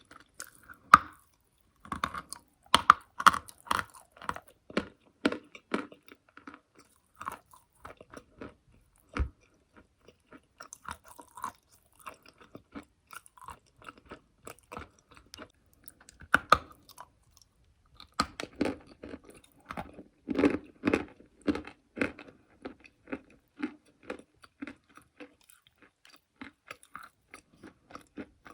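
Close-miked crunching and chewing of chalk: sharp crackling bites come in clusters, with a loud snap about a second in, busy runs of crunching early on and again a little past the two-thirds mark, and softer chewing crackles in between.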